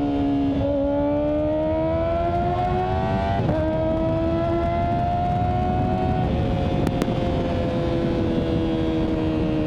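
Kawasaki ZX-4RR inline-four engine, fitted with a cat delete, running under way. Its pitch climbs through the revs with shifts about half a second and three and a half seconds in, then drops as the throttle eases about six seconds in and keeps sinking slowly. Steady wind rush on the microphone lies under the engine throughout.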